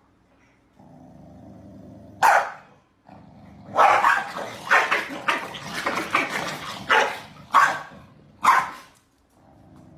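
A dog barking: one loud bark, then a rapid run of barks, then three single barks spaced about a second apart.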